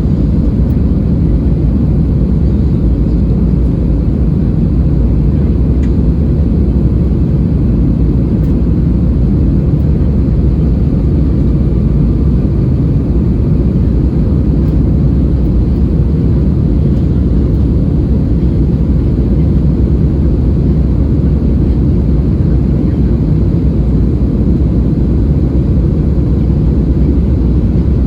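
Steady, loud cabin noise inside an Airbus A320-216 airliner: a low rumble of its CFM56 engines and airflow, unchanging throughout.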